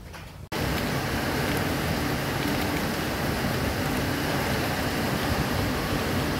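Heavy rain pouring down, a steady hiss that cuts in abruptly about half a second in.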